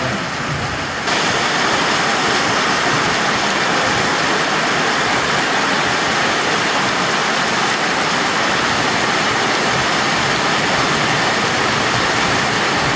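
Heavy tropical downpour: a steady hiss of rain pouring onto a paved street and running water. It jumps suddenly louder and brighter about a second in.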